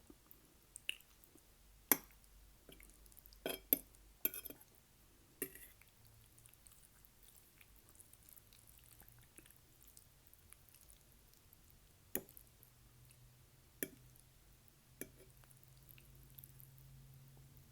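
Close-miked mouth sounds of a person eating: scattered wet clicks and smacks, a cluster in the first few seconds and three more later on, with quiet stretches between.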